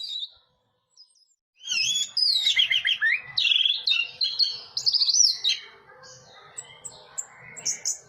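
Orange-headed thrush singing. After about a second and a half of silence comes a loud run of fast, varied warbled phrases and trills lasting about four seconds, then softer scattered chirps.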